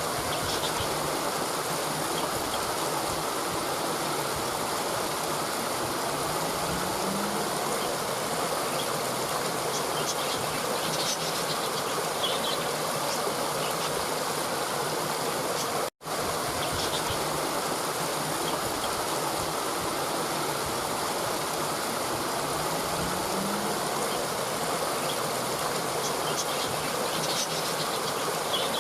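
Steady rushing of running water, like a stream, with faint high chirps now and then. The sound cuts out for an instant about halfway through, where the looped recording restarts.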